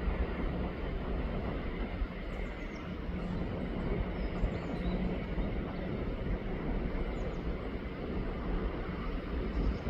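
Steady rushing of flowing river water, with a few faint, short high chirps.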